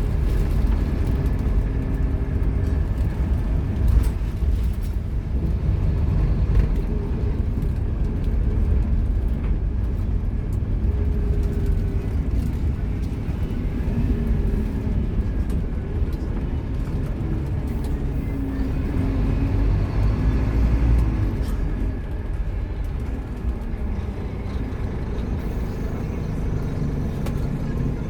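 Scania K230UB Omnilink single-decker bus's nine-litre five-cylinder diesel engine running under way over a steady low rumble, its note rising and falling several times as the bus accelerates and changes gear.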